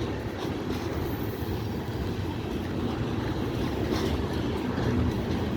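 Norfolk Southern freight train rolling past: a steady low rumble of wheels and cars on the rails, with a few faint clicks.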